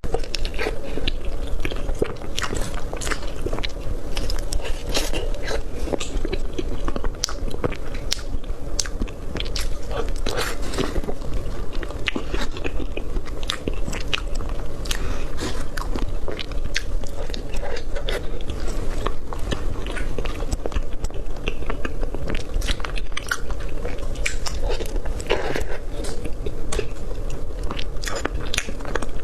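Close-miked eating of cream roll cake: biting and chewing with many quick, irregular mouth clicks, over a steady low hum.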